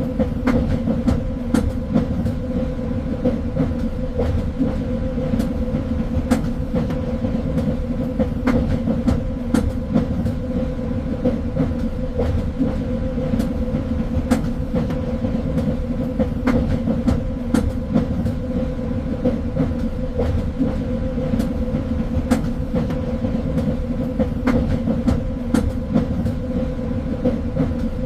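Train running along the rails: a steady rumble with a constant hum, broken by frequent irregular clicks and clacks of the wheels over rail joints.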